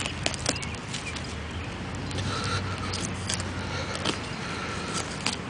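Scrapes and small knocks of a hole being dug in soil after a buried coin, over a low steady hum.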